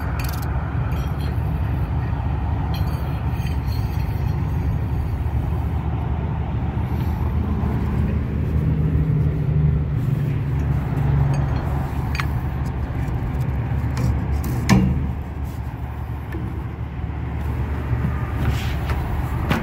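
Steady low rumble of a Carrier rooftop package unit running, with a few sharp clicks and a louder knock about fifteen seconds in as it is worked on.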